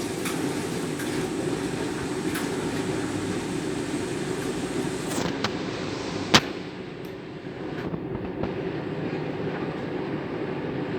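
Candy Grand'O Vita 7 kg front-loading washing machine tumbling a half load in water during a deep-rinse cycle, a steady rumble and slosh from the turning drum. A single sharp click sounds about six seconds in, and the tumbling eases off briefly just after before picking up again.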